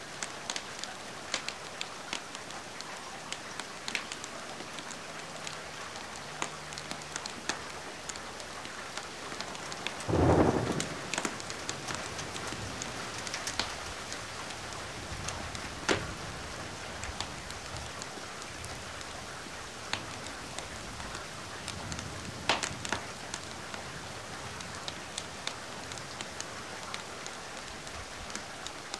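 Steady rain hiss mixed with a wood fire crackling in scattered sharp pops. A louder, deeper burst comes about ten seconds in.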